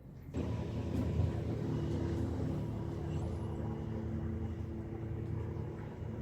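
A motor running steadily with a low, even hum, starting abruptly about a third of a second in.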